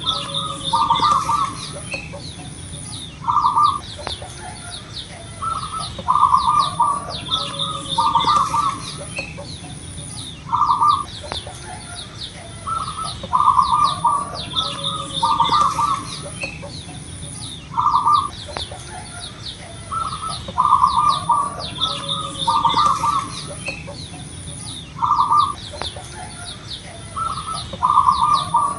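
Local zebra doves (perkutut) cooing over and over, each coo a short burst of quick staccato notes, recurring every one to three seconds. Higher chirping and a steady high whine run underneath.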